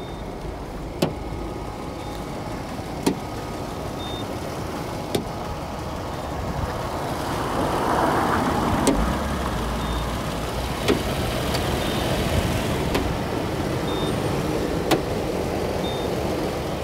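Toyota Land Cruiser Prado 120 running at idle, a steady low rumble that swells for a few seconds midway. Over it, a sharp click and a short high beep alternate, each about every two seconds.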